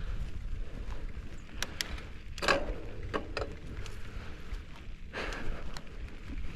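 Mountain bike riding over a rough dirt trail: wind buffeting the microphone, with scattered clicks and rattles and two louder scraping bursts, about two and a half and five seconds in.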